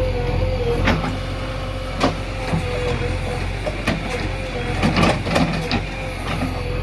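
JCB 3DX backhoe loader's diesel engine running steadily with a wavering whine, broken by several sharp knocks, the loudest cluster about five seconds in.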